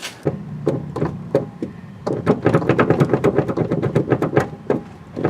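1985 Jeep CJ passenger-side seat bracket creaking: a rapid run of clicks and knocks, densest in the middle, over a low steady hum. The noise comes from the loose bracket pivot pin, whose holes the owner suspects are ovaled out.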